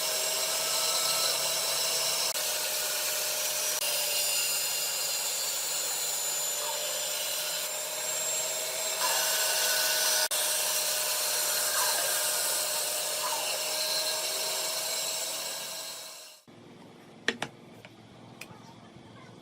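Electric power tool running steadily on wood with a high whine, stopping abruptly near the end; a few sharp clicks follow.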